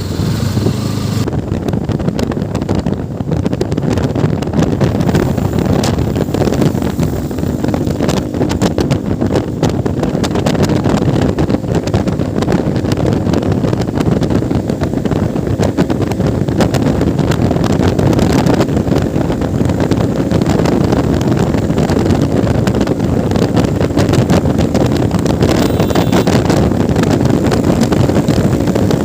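Motorcycle running steadily while being ridden, with wind buffeting the microphone.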